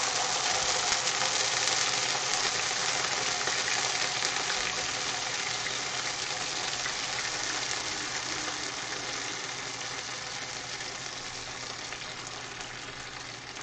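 Cold cooked beans frying in hot oil in a skillet: a steady sizzle that slowly dies down.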